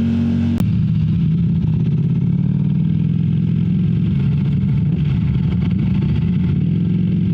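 Motorcycle engine running steadily while riding. A sharp click about half a second in, after which the engine note drops lower and rougher.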